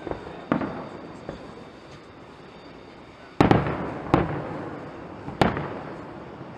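Fireworks display shells bursting: a bang about half a second in, then a louder run of four bangs from about three and a half seconds, each trailing off in a rolling echo.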